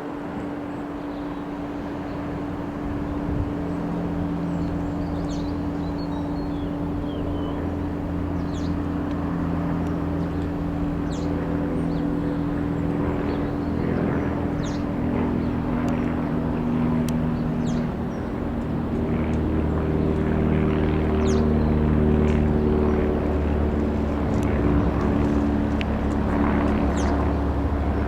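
Piper PA-28-180 Cherokee's four-cylinder piston engine and propeller running steadily. The engine note shifts and gets louder about two-thirds of the way through.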